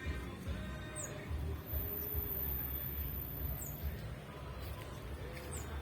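Outdoor background: a steady low rumble with faint distant voices, and three short high chirps spread through it.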